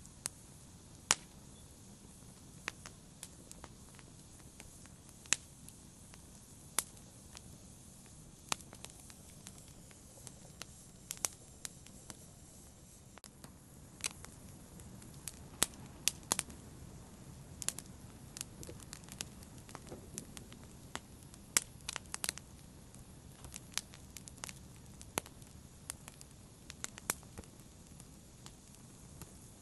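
Wood fire crackling: a low steady hiss with sharp pops and snaps at irregular moments, sometimes several in quick succession.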